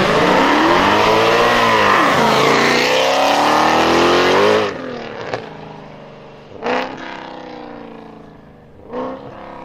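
Mercedes-Benz C63 AMG's V8 through an iPE aftermarket exhaust accelerating hard and loud. The pitch climbs, drops once as if at a gearshift, then climbs again, and cuts off suddenly about halfway as the throttle is lifted. The engine then runs much quieter, with two short, sharp revs in the second half.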